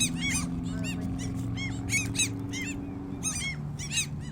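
A flock of gulls calling over and over, many short arched cries overlapping, several a second.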